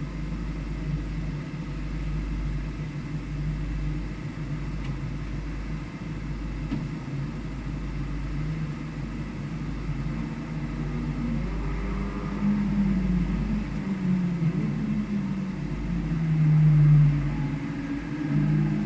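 A vehicle's engine on track, its pitch rising and falling as it accelerates and slows, loudest near the end, over a steady low rumble.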